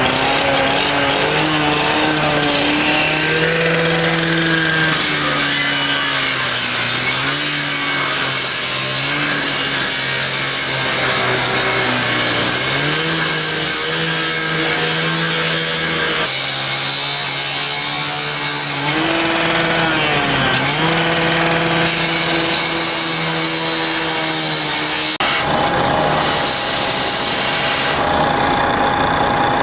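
An engine running hard and steadily, its pitch dipping and rising again several times, over a constant loud hiss. A steady higher tone joins near the end.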